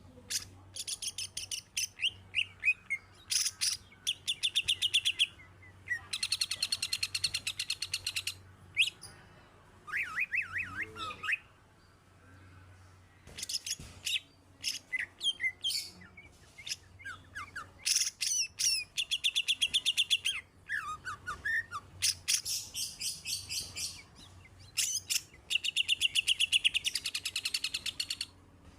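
Greater green leafbird (cucak hijau) singing a long, varied song of fast chattering trills and short whistled notes that slide in pitch, with a pause about halfway through.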